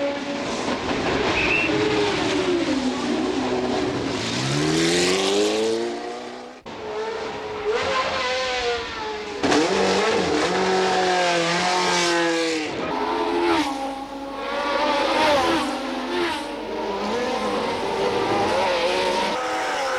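1970s Formula 1 race car engines at high revs, repeatedly rising in pitch under acceleration and dropping at gear changes and lifts, as cars pass. The sound switches abruptly a few times between different cars.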